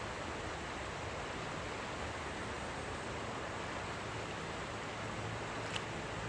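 Steady rush of flowing river water, with one short sharp click near the end.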